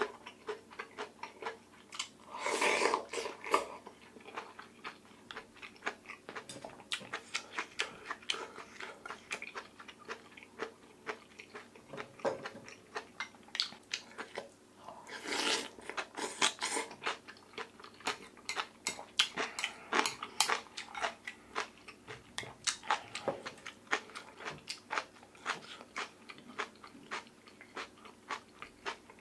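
Close-miked eating: steady chewing and crunching of oyster rice soup and radish kimchi, with many quick wet mouth clicks. Two longer, louder slurps of broth come about three seconds in and again around the middle.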